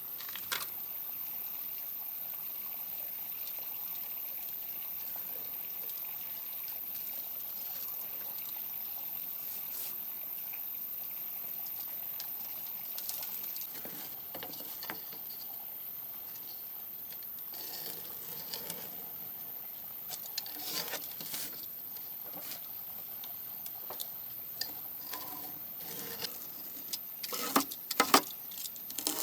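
Scattered light taps and clicks over a faint steady hiss, coming closer together with a louder cluster near the end.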